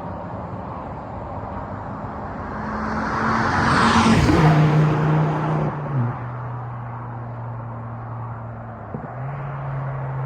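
Car with a cat-back exhaust that has no rear silencer driving past. It grows louder to a peak about four seconds in, then drops in pitch and fades as it goes by. A steady low engine hum runs underneath.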